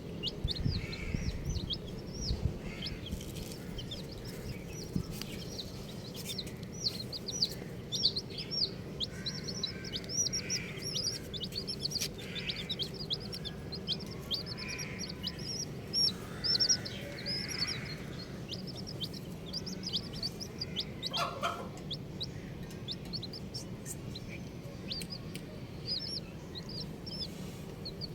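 A group of baby chicks peeping nonstop: many short, high calls that each slide downward, overlapping one another, with a few lower, softer calls mixed in. There is a brief sharp sound about three-quarters of the way through.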